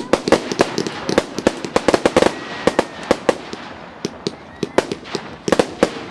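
Fireworks going off: a dense, irregular run of sharp bangs and crackles, thickest in the first half and again near the end, with a faint whistling glide about halfway through.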